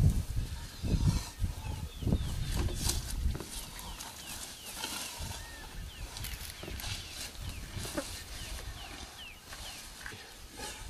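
A bird calling over and over in short downward-sliding chirps, with low buffeting noise in the first few seconds and a few sharp clicks later on.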